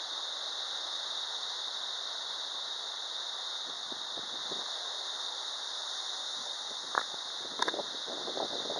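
Steady hiss of typhoon rain and wind, with a couple of sharp taps, like drops or debris striking something, near the end.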